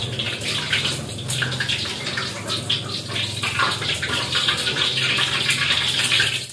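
Eggplant stir-fry sizzling in a wok on a gas stove, with a metal spatula stirring and scraping through it in quick clicks. A low steady hum runs underneath.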